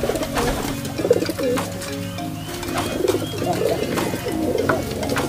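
Several domestic pigeons cooing at once, their low warbling coos overlapping throughout.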